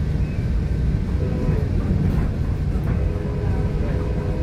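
Steady low rumble of a New Mexico Rail Runner Express commuter train running at speed, heard from inside a passenger car.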